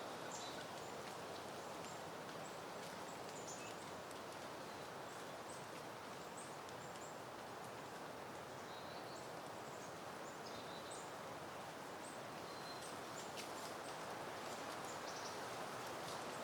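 Soft, steady wind rustling through foliage and peony blooms, with faint high bird chirps scattered over it.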